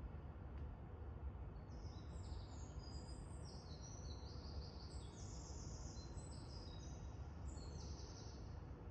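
Birds calling in a rapid, overlapping series of short high-pitched chirps that start about two seconds in and run until near the end, over a steady low background rumble.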